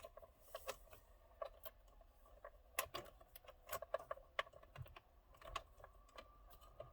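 Faint, irregular light clicks and taps of a hand tool working the bolt at the steering wheel hub.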